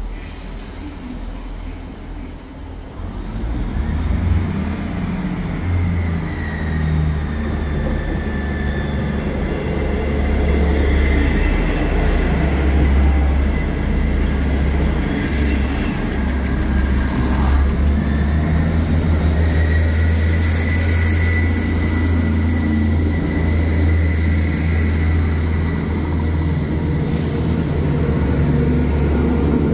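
A train running through the station, with a deep, heavy drone that builds over the first few seconds and then holds steady. A thin high tone wavers up and down above it for much of the time.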